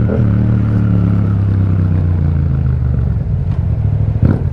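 Yamaha MT-07's parallel-twin engine through an Akrapovič exhaust while riding, pulling at a steady low note. Near the end the note breaks briefly, then picks up again.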